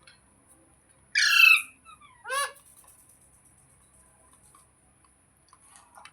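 Pet parrot squawking twice, about a second apart. The first squawk is loud, harsh and about half a second long; the second is shorter.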